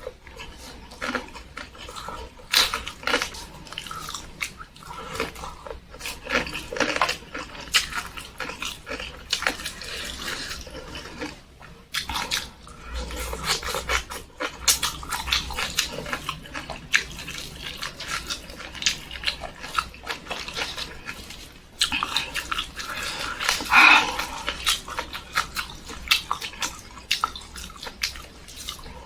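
Close-miked eating sounds: wet chewing, smacking and mouth noises, irregular and continuous, with a louder burst about three-quarters of the way through.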